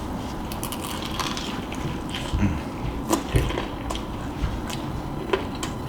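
Close-up biting and chewing of a crispy fried-chicken drumstick, with scattered crackles from the breaded skin.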